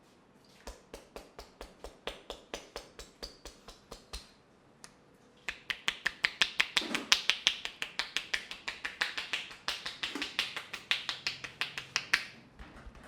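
A rapid, regular series of sharp taps, about four a second for a few seconds. After a short pause comes a louder, faster run of about six a second.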